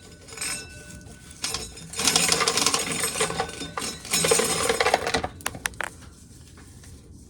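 Corn sheller rattling as dried corn is shelled, with kernels clattering, for a few seconds; then a few sharp clicks and a quieter stretch near the end.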